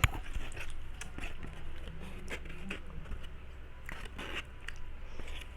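Small scattered clicks and knocks of things being handled at the table, with a sharp knock right at the start, over a steady low hum.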